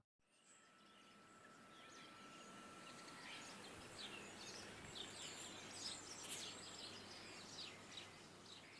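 Faint outdoor ambience with small birds chirping, many short quick calls clustered from about three to eight seconds in, over a steady soft hiss.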